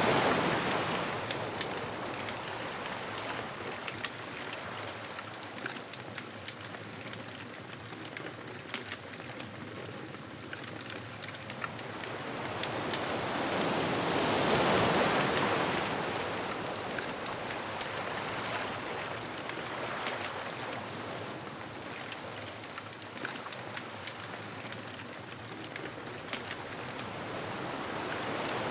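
Ocean waves washing onto a beach, one surge breaking about halfway through and another building near the end, with a bonfire crackling throughout.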